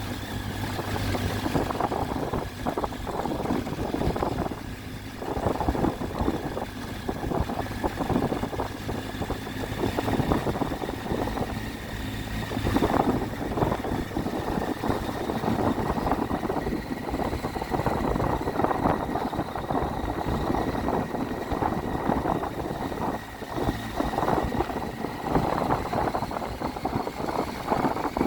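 Triumph Tiger 800's three-cylinder engine running under way while riding, mixed with a constant rush of wind and road noise. A thin steady whine rises slightly in pitch near the end.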